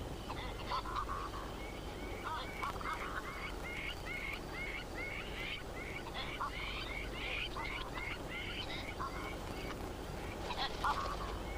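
Wild birds calling: a run of short, hooked calls repeated about twice a second through the middle, with scattered calls before and after, over a steady low hum.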